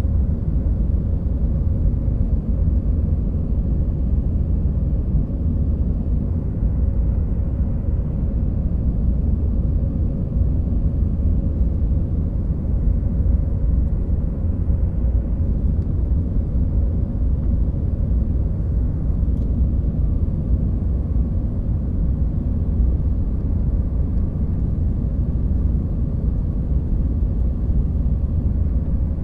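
Jet airliner cabin noise in flight: a steady low rumble of engines and airflow, with a faint steady hum above it.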